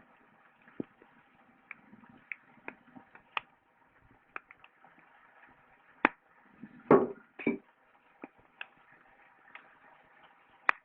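Wood fire crackling: scattered sharp pops and snaps over a faint hiss, with a louder cluster about seven seconds in and a sharp snap near the end.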